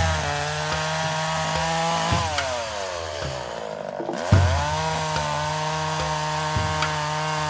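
Two-stroke chainsaw running at full throttle. Its engine note winds down about two seconds in, revs back up sharply around four seconds and holds steady, then eases off again at the end.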